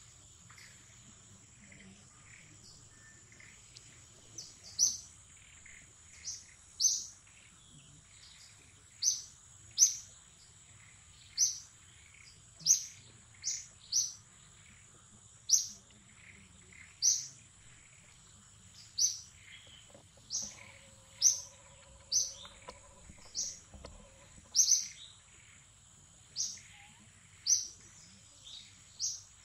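A bird calling over and over, a short, sharp, high-pitched falling note about once a second, starting a few seconds in. Behind it runs a steady high-pitched insect drone.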